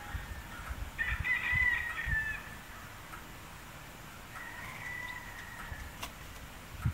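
A bird calling twice with long, drawn-out calls, each about a second and a half long, the first louder and dropping slightly in pitch at its end. Scattered low thuds sound underneath.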